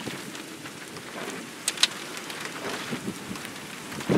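Rain falling during a thunderstorm, a steady hiss with drops striking near the microphone, including two sharp taps close together just before the middle.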